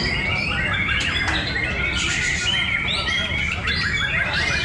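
Several songbirds singing and chirping at once, in many short, overlapping whistled phrases and trills, over a steady low rumble.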